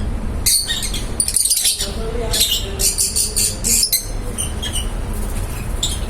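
Lovebirds chattering in a flurry of rapid, high-pitched chirps that thin out after about four seconds, over a steady low background rumble.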